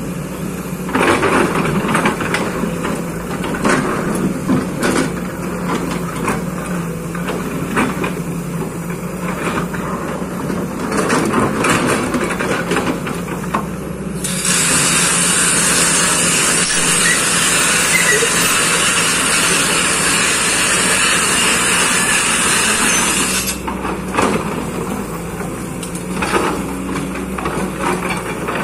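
Kobelco excavator's engine running steadily while its bucket scrapes and knocks through soil, levelling the ground. Shortly before halfway a loud, even hiss starts and covers it for about nine seconds, then cuts off.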